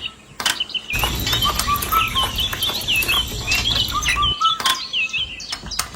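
Small birds chirping over and over in short hooked notes, mixed with scattered sharp clicks and taps and, for a few seconds in the middle, a low rumble.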